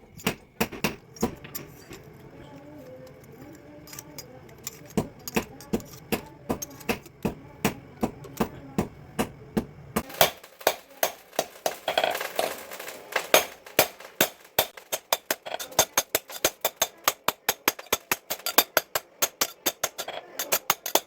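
Hammer striking a steel sickle blade on an anvil in quick, even blows. The blows are sparser over a low steady hum at first, then come about four a second and ring brighter from about halfway, when the hum stops.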